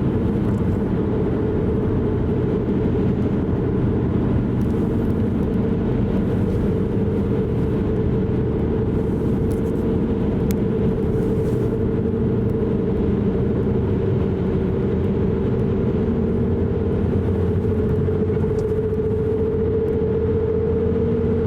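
A car being driven, heard steadily from the inside: engine drone and road noise, with the engine note creeping up a little near the end.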